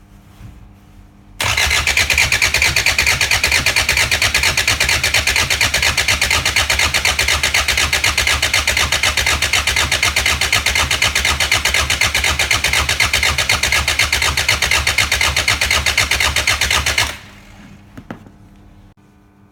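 Starter motor cranking a Hyundai D4EA 2.0 CRDi four-cylinder diesel engine during a compression test, with a fast, even pulse of compression strokes. It starts suddenly about a second and a half in and cuts off suddenly near the end, after about fifteen seconds.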